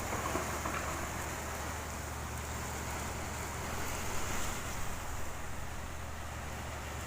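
Steady rushing noise of a summer storm, swelling a little about four seconds in.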